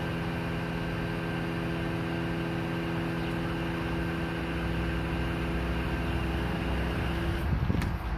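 Heavy truck engine, with the crane's hydraulic drive, running steadily with an even hum. About seven and a half seconds in the hum cuts off with a short sweep in pitch, and a lower rumble carries on.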